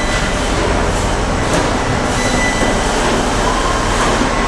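Steady din of a car assembly hall: a constant low rumble and machine noise with a few faint whines, one coming in about three and a half seconds in.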